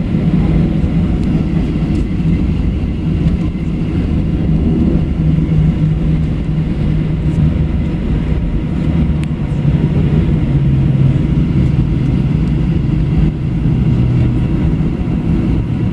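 Boeing 737-700 cabin noise while taxiing off the runway after landing: a steady low rumble from the CFM56-7B engines and rolling wheels, with a steady low hum.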